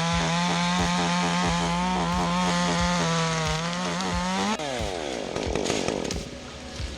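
Chainsaw running at high revs, its pitch wavering slightly as it works. About four and a half seconds in, the revs fall away sharply as the throttle is let off.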